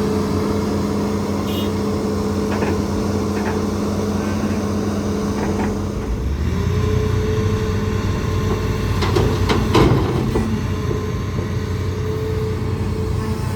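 Hitachi ZAXIS200 excavator working: its engine and hydraulics run with a steady whine, the pitch shifting about six seconds in. A cluster of sharp knocks and clatter comes about nine to ten seconds in.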